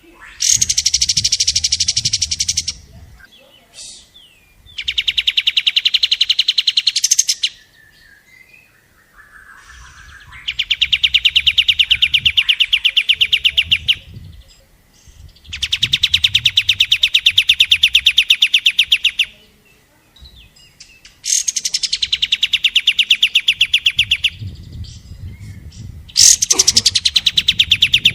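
Recorded song of a kapas tembak bird used as a tutor track for training konin birds. It comes in six long bursts of very rapid, tightly spaced repeated notes, each lasting about two to four seconds, with short pauses between.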